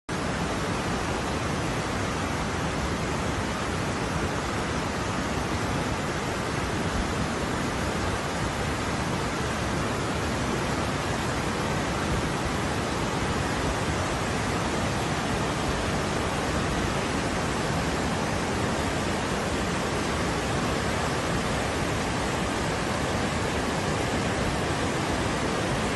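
Tropical storm downpour: heavy rain and wind making a constant, even rush of noise that never lets up.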